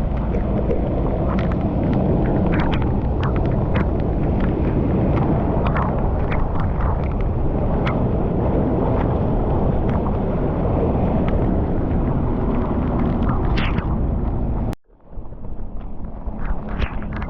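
Water rushing hard, with many small splashes and knocks over a steady roar. It cuts off abruptly near the end and resumes as a similar rush with a low hum under it.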